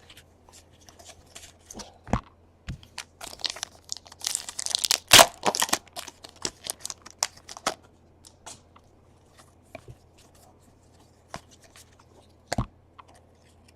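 A 2017 Donruss baseball card pack's wrapper torn open and crinkled, the loudest tearing about four to five and a half seconds in, amid scattered clicks and snaps of cards being handled.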